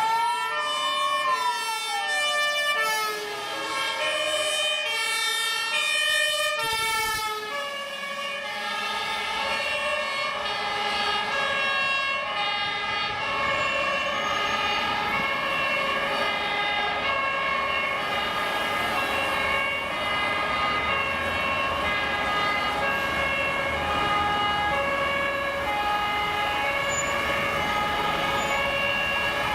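Several fire service vehicles' two-tone sirens sounding at once, each stepping back and forth between two pitches, with a wailing siren rising and falling in the first few seconds. Heavy vehicle engine and road noise comes up beneath the sirens after several seconds as the vehicles pass.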